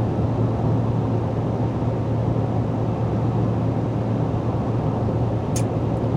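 Steady in-cab road and engine noise of a pickup truck cruising at highway speed, a continuous low hum under tyre rumble. A single short click sounds near the end.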